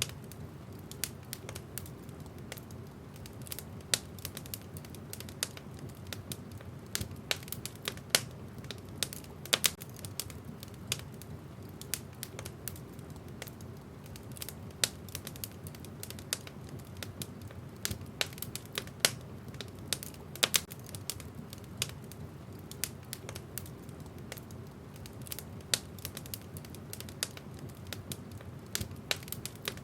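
Wood fire burning in a fireplace: a steady low rumble of flames with frequent irregular crackles and occasional sharper pops from the burning logs.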